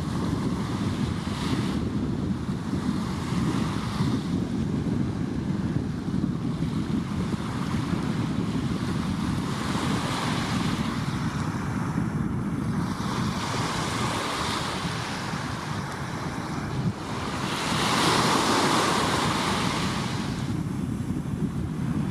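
Surf breaking and washing ashore in repeated swells every few seconds, the biggest wash near the end, over a steady low rumble of wind on the microphone.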